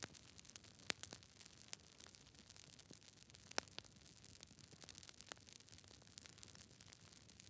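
Campfire crackling: irregular sharp pops and snaps over a faint, steady hiss.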